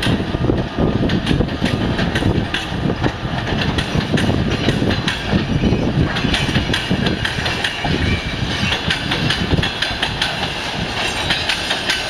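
Train hauled by a VL11M electric locomotive rolling by, its wagons' wheels clicking over the rail joints over a continuous rumble.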